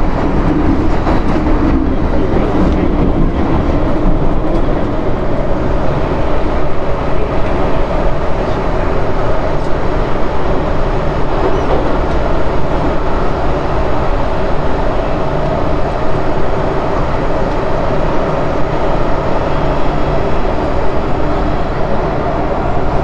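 MTR M-train electric multiple unit running at speed: a steady, loud rumble of wheels on rail with a low electric hum underneath.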